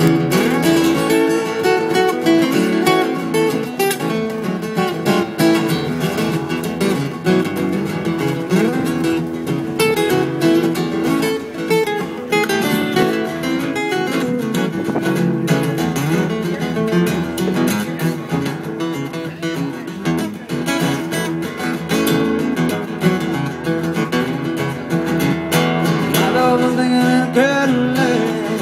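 Acoustic guitar strummed and picked in an instrumental break of a live song, with sliding notes here and there.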